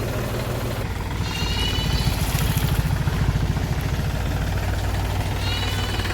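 Diesel engine of a Mahindra 39 hp tractor running steadily while driving a thresher, its beat growing louder and heavier from about one second in, then easing back after about three and a half seconds.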